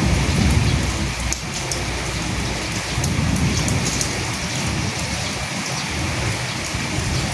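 Steady rain falling and pattering, with low rolls of distant thunder in the first second and again around three seconds in.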